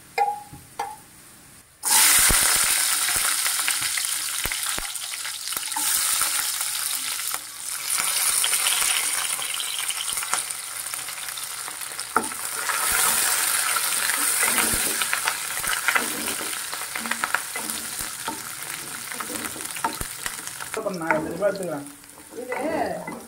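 Peeled garlic cloves and curry leaves sizzling loudly in hot oil in a nonstick pan, the sizzle starting suddenly about two seconds in, with a spatula clicking and stirring through it. The sizzle drops away sharply near the end.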